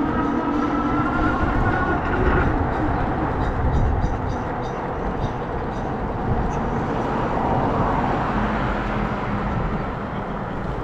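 Riding noise: a whine slowly rising in pitch that stops about two seconds in, then a steady rush of wind and road rumble.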